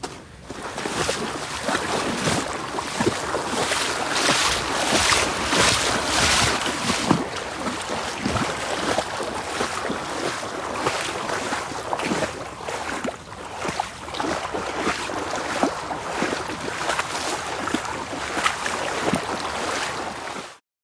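Floodwater sloshing and splashing close to the microphone, a steady rushing wash broken by frequent irregular splashes. The audio cuts off suddenly near the end.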